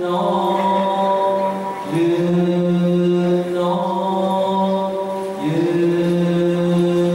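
Buddhist chanting in long drawn-out held tones, three phrases in a row, each starting with a short scoop up in pitch.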